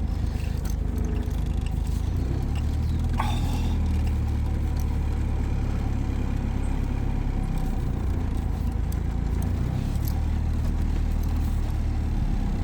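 Deep, steady engine and road rumble of an old car heard from inside while it is being driven, with one brief sharper noise about three seconds in.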